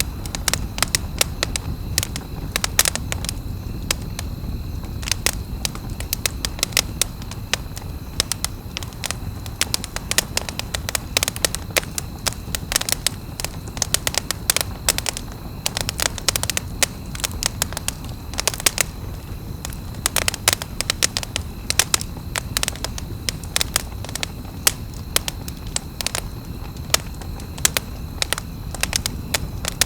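Wood campfire crackling, with frequent sharp pops over a low steady rumble of the burning fire.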